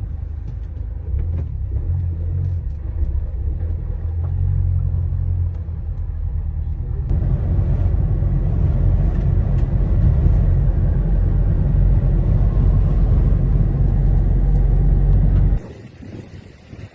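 Low, steady rumble of a car on the move, heard from inside, with road and wind noise. It grows louder about seven seconds in and cuts off abruptly near the end.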